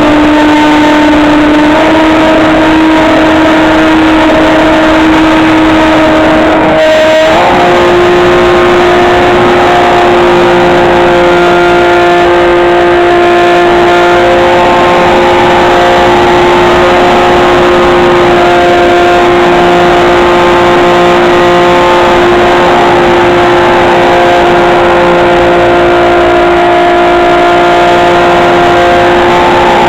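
Electric motor and propeller of a HobbyKing SkyEye FPV plane running steadily, a loud whine over a rushing noise. The pitch steps up twice, about two seconds in and again about seven seconds in, as the throttle is raised, then holds.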